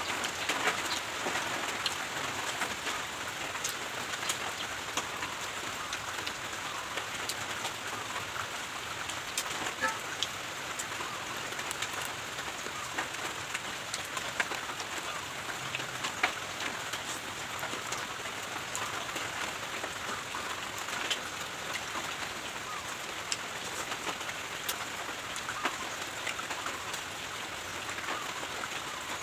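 Steady light rain falling, with scattered drops ticking sharply on nearby surfaces.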